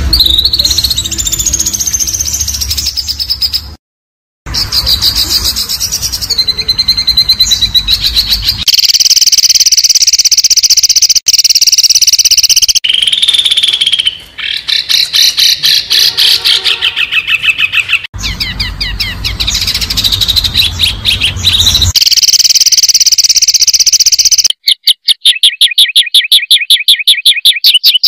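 A spliced compilation of loud, fast songbird songs, of the kind used as 'masteran' to train shamas and contest birds. High, rough trills and chatters cut abruptly from one clip to the next every few seconds. Near the end comes a rapid, even chatter of about six notes a second.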